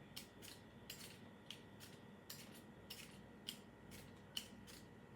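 Apples being peeled by hand, a blade shaving off strips of skin in short, faint scraping strokes, about three a second.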